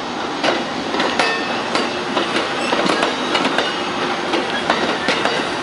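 Train wheels clattering over the rails, with frequent sharp clicks, several a second, and a thin metallic squeal of wheels on track.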